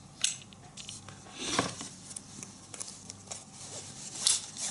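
Fishing tackle being handled: scattered light clicks and taps with some rustling, the sharpest click about a quarter second in and another near the end.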